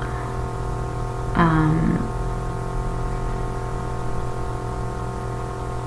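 A steady droning hum made of many held tones. Partway through, about a second and a half in, a brief vocal sound falls in pitch.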